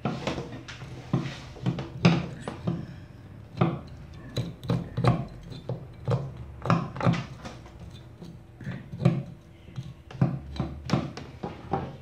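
Metal bonsai tool scraping and picking compacted soil from the edge of a root mass: a run of irregular gritty scratches and small knocks, a few each second.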